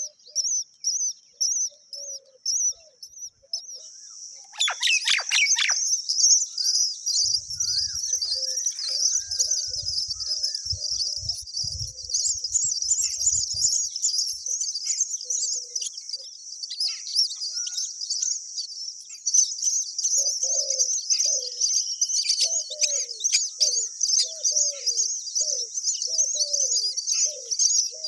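Myna birds calling: a dense run of rapid, high-pitched chirps throughout, getting louder about four seconds in. Shorter, lower calls repeat over the second half.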